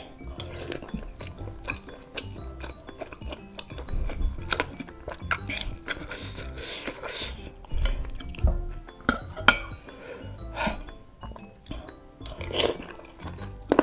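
Close-up chewing of chewy baso aci (tapioca meatballs) in broth, with a spoon and fork clinking against a ceramic bowl, over soft background music.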